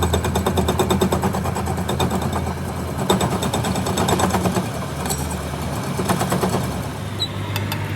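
An engine idling steadily, with an even, rapid pulsing.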